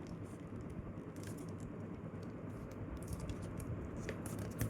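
Faint rustling and light crackling ticks of a paper sheet being folded and creased by hand, over a low steady background hum.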